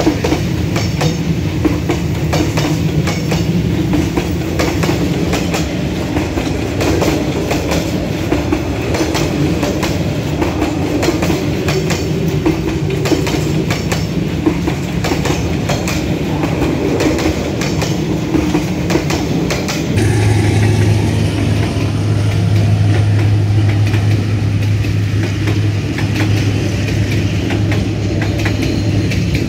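Train passing at close range, its wheels clattering over the rail joints in a dense, uneven run of clicks. About two-thirds of the way through, the sound switches abruptly to a steadier low hum with fewer clicks.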